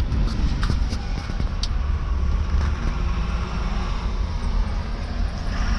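Truck running with a steady low engine rumble.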